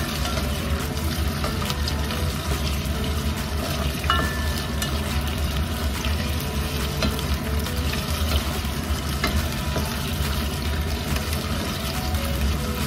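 Potato wedges sizzling steadily as they fry in hot oil in a pot, with the occasional scrape and tap of a spatula turning them.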